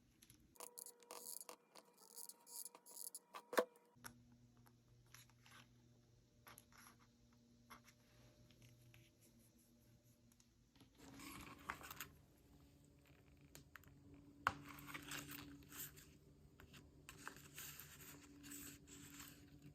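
Quiet handling of paper and small craft items on a desk: soft rustles, scrapes and light taps, with one sharper click a few seconds in and busier rustling in the second half.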